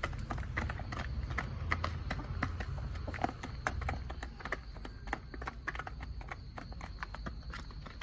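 Chickens pecking at food: a quick, irregular run of sharp little taps, over a steady low rumble.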